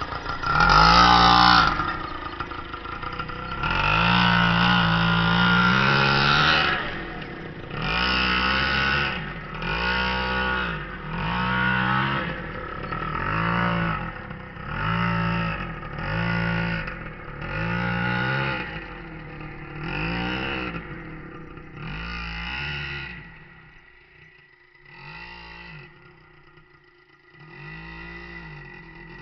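Nitro RC car's small two-stroke glow engine revving up and falling back over and over, about once every two seconds, growing fainter near the end.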